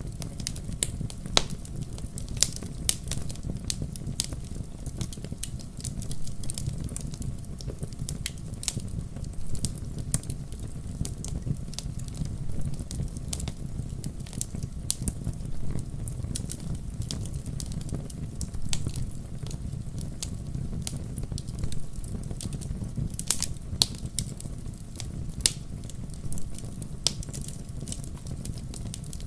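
Fire burning in a fireplace: frequent sharp crackles and pops, irregularly spaced, over a steady low rumble of the flames.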